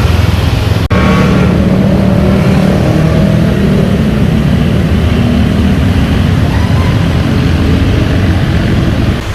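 City road traffic: car and motorbike engines running and pulling away in heavy traffic, with an abrupt cut about a second in.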